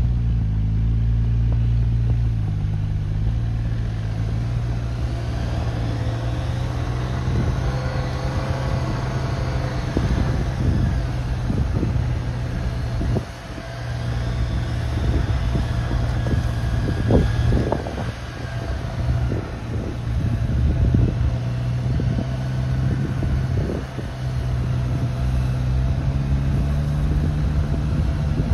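Jeep Wrangler's engine running under load while off-roading, its pitch stepping up and down with the throttle and dipping briefly partway through. Scattered knocks and thumps come through the vehicle in the middle part.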